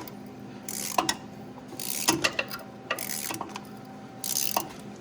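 Hand ratchet wrench clicking in short strokes, about one a second, as a bolt is worked.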